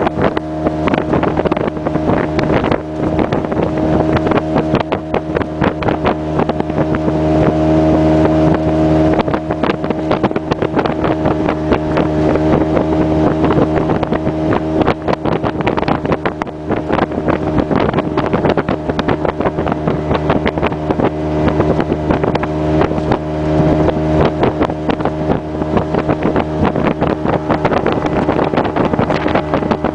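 Small passenger boat's outboard motor running steadily under way, with many short knocks and slaps on the water, and wind on the microphone.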